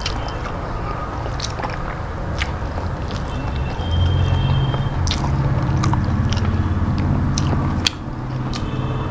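Close-miked eating by hand: chewing and wet mouth sounds with many small clicks, and soft squishing of rice being mixed by hand on a steel plate. The chewing gets louder about four seconds in.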